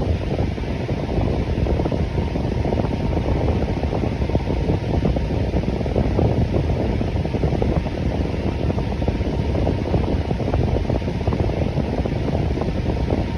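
Electric fan running steadily: a constant low whooshing of moving air, with no change in speed.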